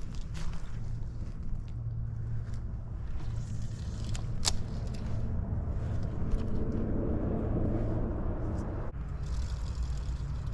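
Steady low rumble with a faint hum, with a few small clicks and rustles over it; one sharper click comes about four and a half seconds in.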